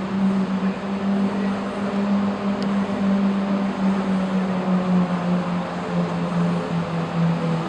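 Lamborghini Murcielago SV's 6.5-litre V12 idling steadily after a rev, its note settling slightly lower in the last couple of seconds.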